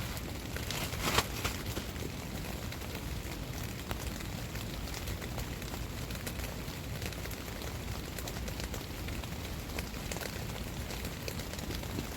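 Steady heavy rain, with many small drop ticks over a low rumble and a louder rustling clatter about a second in.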